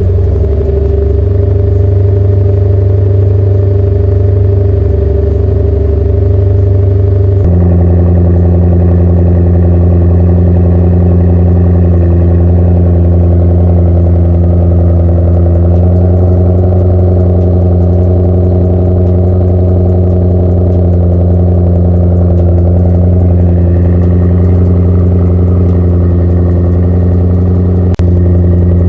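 Toyota Celsior's V8 running steadily through a one-off straight-through loop exhaust, a deep even note at a constant engine speed. The note changes abruptly about seven seconds in, and a single sharp click comes near the end.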